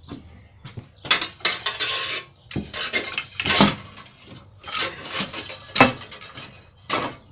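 Metal objects and tools clanking and clattering as they are shifted and knocked together, a run of sharp knocks and scrapes in several clusters.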